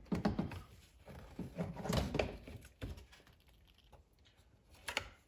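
Hands working loose plastic center-console trim and a wiring clip: irregular light clicks and rustling, with a sharper click near the end.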